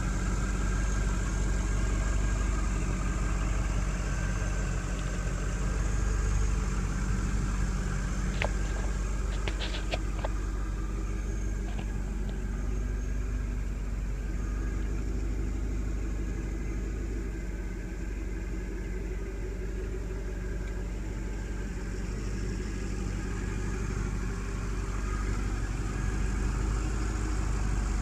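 A 2000 Chevrolet Corvette's LS1 V8 idling steadily, heard at the open engine bay, with a Corsa aftermarket exhaust fitted. A few light clicks come about a third of the way in.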